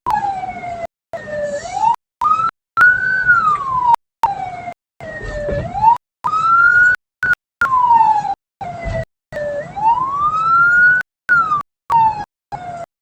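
Wailing siren of a military police escort vehicle, its pitch rising and falling slowly, one sweep every two to three seconds, with the sound cutting out briefly many times.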